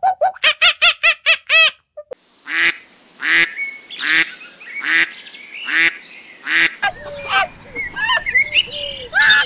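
Ducks quacking, about six loud quacks spaced under a second apart. They are preceded by a rapid string of short high calls, and near the end give way to birds chirping with short gliding notes over a light outdoor hiss.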